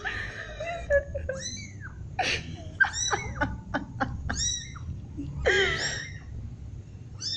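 A pet animal making a series of high-pitched mewing cries, about six of them, each rising and then falling in pitch.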